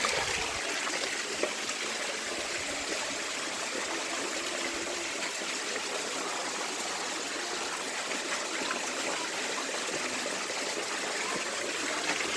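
Steady running water from a small waterfall and stream.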